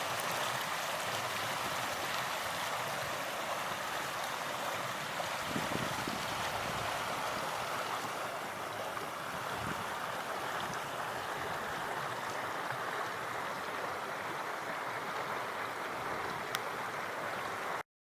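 Mountain stream water running in a steady rush, until it cuts off suddenly near the end.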